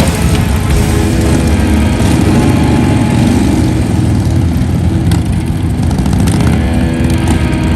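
Harley-Davidson V-twin motorcycle engine running steadily and loud, with no break.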